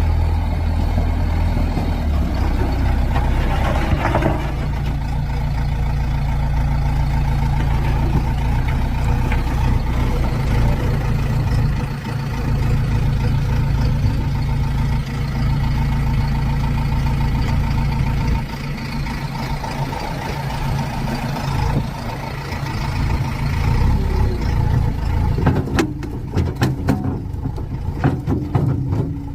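Engine of a JCB earthmoving machine running steadily, its note dropping and changing about two-thirds of the way through. Near the end comes a run of sharp knocks and clanks.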